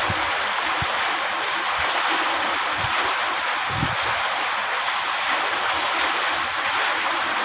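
Steady rain falling, a dense even hiss, with a few soft low thumps.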